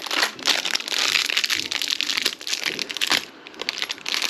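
Dense, continuous crinkling and crackling, as of something being handled and crumpled, with a short lull about three and a half seconds in.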